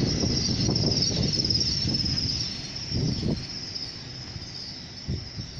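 Great Western Railway Class 800 Intercity Express Train running past the platform: a clattering rumble of wheels on rail that fades after about two and a half seconds as the cab end goes by, with a couple of single thuds afterwards and a steady high hiss throughout.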